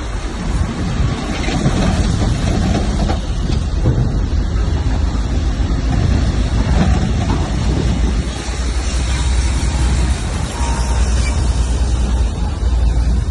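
Heavy diesel earthmoving machinery running steadily, its sound mostly low-pitched, with the level rising and falling a little.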